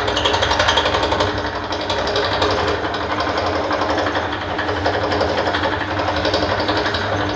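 Wheel rim repair machine running, with a fast, even mechanical clatter over a steady motor hum.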